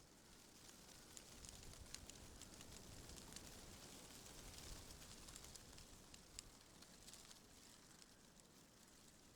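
Wind rustling tree leaves, faint: a soft high hiss dotted with many small crackling ticks, swelling a few seconds in and easing off near the end.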